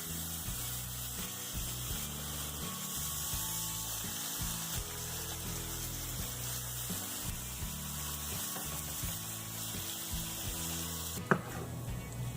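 Bacon sizzling on a hot griddle, a steady high hiss over low background music. The sizzle cuts off abruptly near the end with a sharp click.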